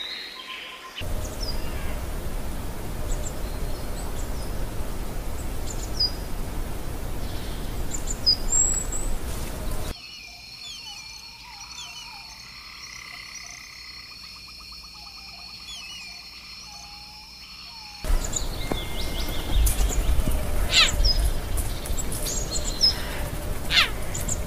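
Nature ambience made of separate stretches of outdoor sound. A steady rushing noise carries scattered short chirping calls. About ten seconds in it drops to a quieter stretch with a steady high hum and chirps. After about eighteen seconds the rushing noise returns with many short calls.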